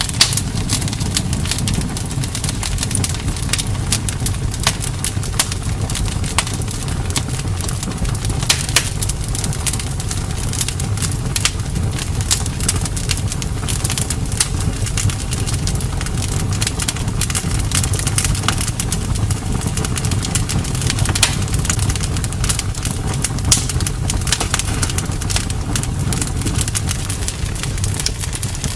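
Wood bonfire crackling, with many sharp, irregular pops and snaps over a steady low rumble.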